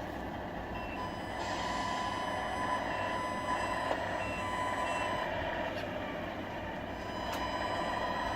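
Radio-controlled model truck's sound unit playing reversing beeps over a steady diesel engine sound. A string of evenly spaced high beeps runs through the first half and then stops.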